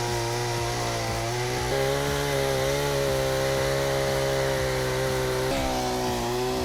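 Chainsaw engine running steadily at high speed, its pitch stepping up about two seconds in and shifting again near the end.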